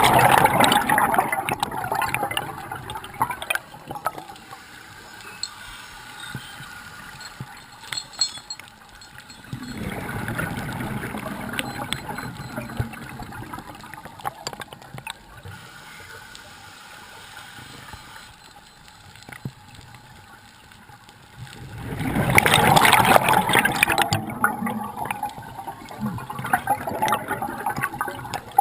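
Scuba diver's exhaled bubbles gurgling up past the regulator underwater, in three surges about ten seconds apart, with faint bubbling and small clicks in between.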